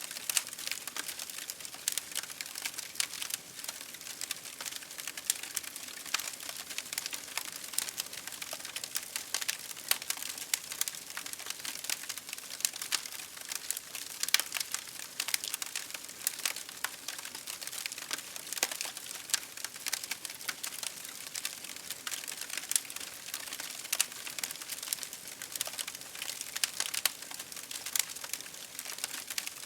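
Campfire burning, with a steady crackle of many small sharp pops and snaps from the burning wood.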